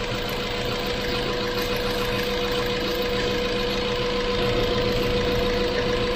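2007 Ford Focus 1.6-litre 16-valve petrol engine running at a steady high idle, with a steady high tone over it. The owner suspects a vacuum leak as the cause of the high idle.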